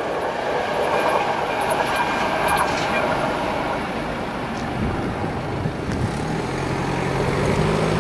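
Passenger train running away after passing, its rumble slowly fading. Near the end a car's engine draws near.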